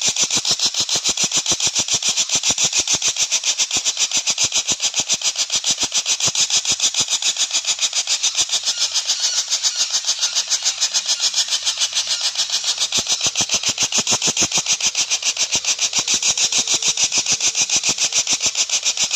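Platuk bawang bird calling in a fast, even, unbroken series of ticking notes, about seven a second, which sounds like a small dompeng engine running.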